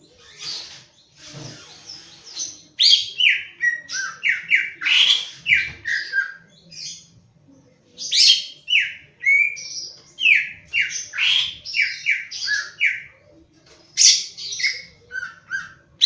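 Cucak ijo (green leafbird) singing: quick runs of sharp, high, downward-slurred notes, fainter for the first couple of seconds, then loud and fast, with a short break before a last burst near the end.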